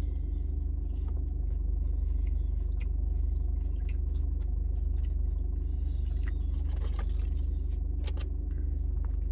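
Steady low hum of an idling car engine, with scattered faint clicks over it.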